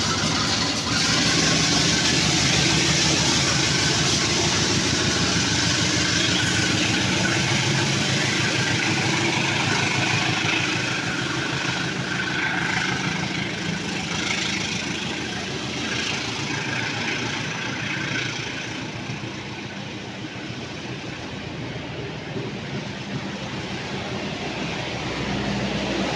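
Diesel locomotive hauling a passenger train as it departs, its engine giving a steady low hum over rail and wheel noise. The sound eases somewhat past the middle and builds again near the end.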